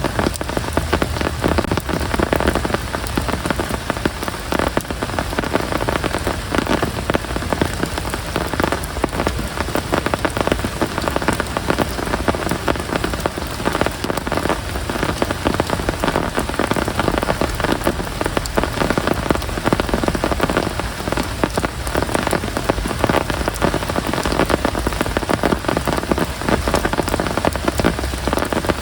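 Rain falling steadily, a dense stream of individual drops striking all through.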